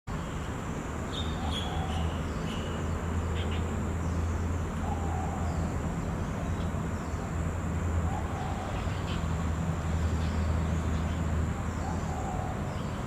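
Short bird chirps and calls over a steady low hum and a faint, steady high-pitched whine.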